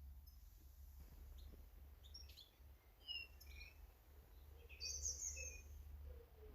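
Small garden birds calling faintly: short high chirps scattered through, with a louder, longer chirp about five seconds in, over a steady low hum.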